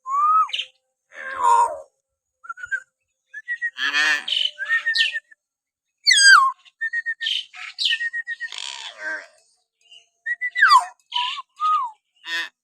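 Hill myna calling in a varied run of short whistles, steep falling glides and harsh squawks, with brief gaps between calls.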